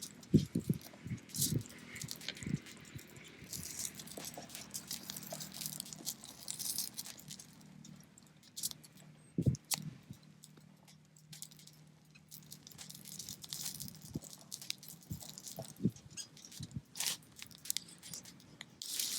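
Scattered clinks, knocks and rattles of cookware being handled over a small wood fire, with bits of crackle and hiss between them.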